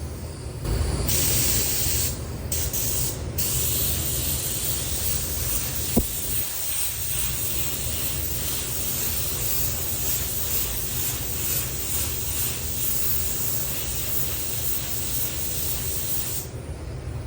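HVLP paint spray gun spraying waterborne white basecoat in a steady hiss. It starts about a second in, cuts out briefly twice soon after as the trigger is released, then runs on until near the end, with one sharp click partway through. A steady low hum sits underneath.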